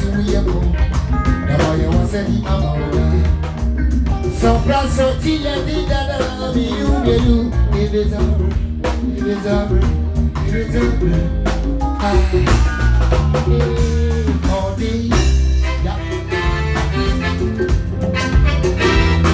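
Live band music with drum kit, bass and singing, a steady upbeat groove.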